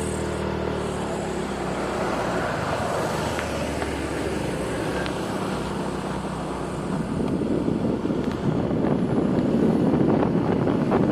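Road traffic ambience: a vehicle's engine hum fades out within the first second, then a steady rushing of road and wind noise grows louder about seven seconds in.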